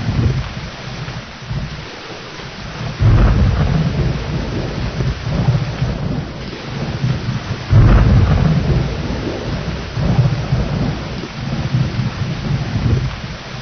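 Thunderstorm: steady heavy rain with rolling thunder, two loud cracks of thunder about three and eight seconds in that rumble off slowly.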